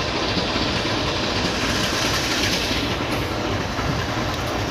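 Steady rumble and rattle of a train on the tracks.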